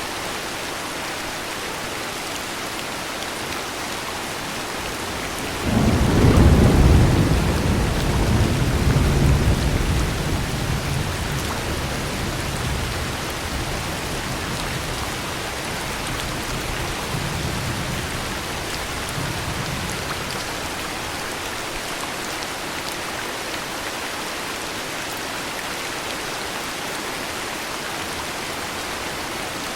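Steady heavy rain with a thunderclap breaking in about six seconds in, a deep rumble that rolls on and fades over several seconds, followed by fainter rumbles a little later.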